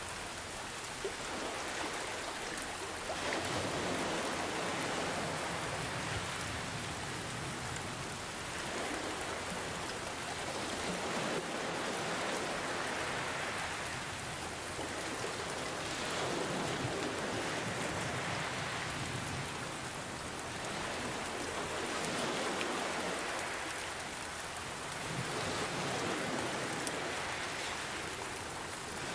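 Steady rain hiss with ocean waves washing in, the sound swelling and ebbing about every four to five seconds.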